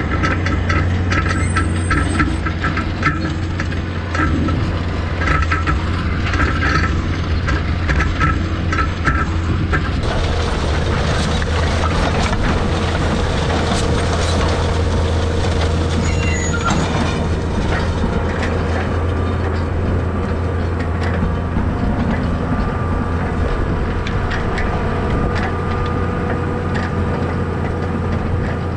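Farm tractor engine running steadily with a deep hum, under working load. Repeated rattling clicks come through for the first several seconds. About ten seconds in, the sound grows fuller with a rushing noise and then holds steady.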